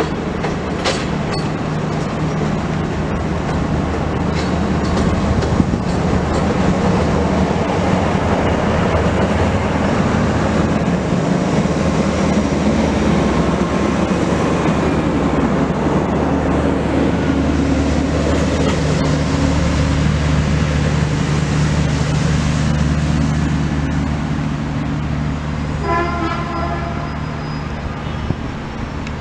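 Multiple-unit passenger train passing close, its engine droning steadily with wheel noise from the rails, loudest as it goes by and then fading as it moves off. A short horn blast sounds near the end.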